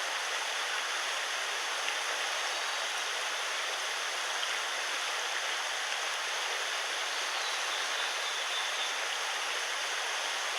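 Mountain stream water rushing with a steady, even hiss.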